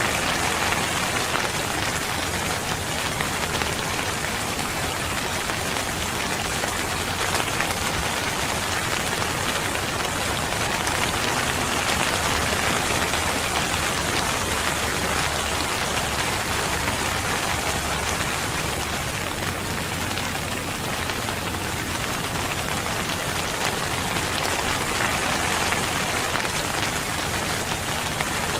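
Steady rain falling, a dense even hiss of drops with no thunder or other distinct sounds.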